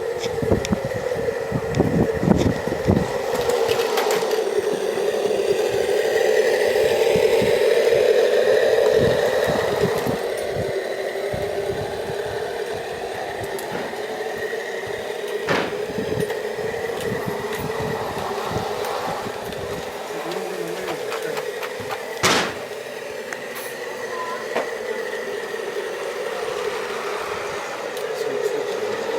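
16mm-scale live-steam model train running on a garden narrow-gauge line: a steady running sound that grows louder a few seconds in and then eases off, with scattered small clicks and one sharper knock about two-thirds of the way through.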